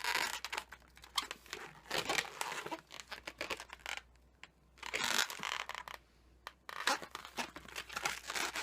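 Latex modelling balloons being handled and twisted by hand: irregular bursts of rubbing, squeaking and crinkling, with two short pauses about halfway through.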